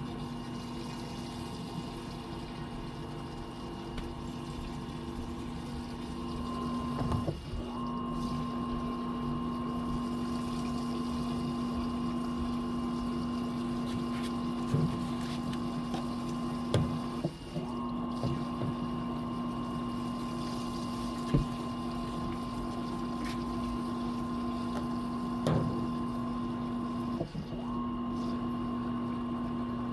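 Fisher & Paykel MW059 washing machine's drain pump running with a steady hum as it pumps the wash water out through the drain hose, with water rushing along with it. The hum briefly drops out and comes back three times, about ten seconds apart.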